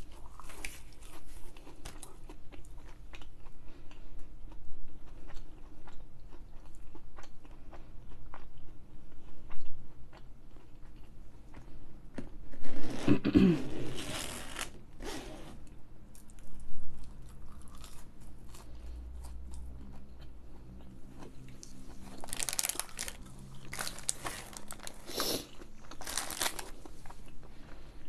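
Close-miked eating: chewing with crisp crunching bites of fried food. There are a few loud crunches about halfway through and a cluster of them near the end.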